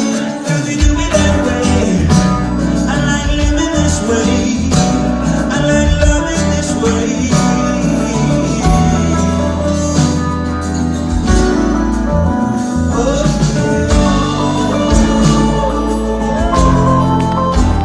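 Live rock band playing an instrumental passage with guitar over a steady bass and beat.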